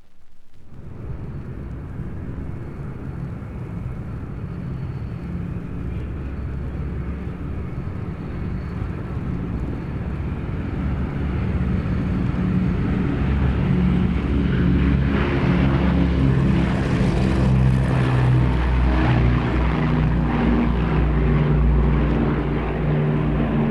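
Propeller aircraft taxiing, its engine running steadily and growing louder as it draws nearer, starting about half a second in.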